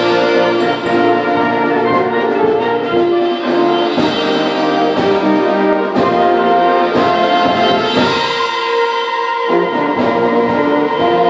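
Symphonic band playing a loud, brass-heavy passage of sustained chords, trombones and trumpets prominent. The low instruments drop out for a moment about eight seconds in, then come back in under the full chord.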